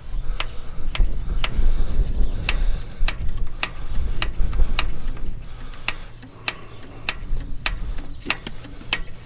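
Hand fuel-priming pump on an International Harvester 1086 being stroked, a sharp click about twice a second, to bleed air out of the fuel line. A low rumble runs under it and fades near the end.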